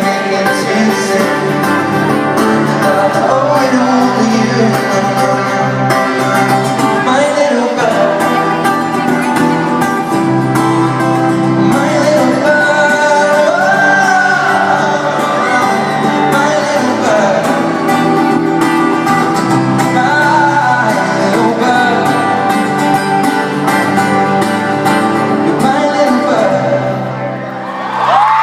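Live music: acoustic guitar with a male voice singing long, gliding notes at the close of the song. The music dips briefly near the end.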